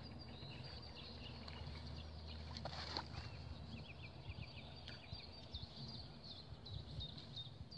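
Faint birdsong: small birds chirping in short repeated notes, several quick runs of them, over a low steady outdoor rumble.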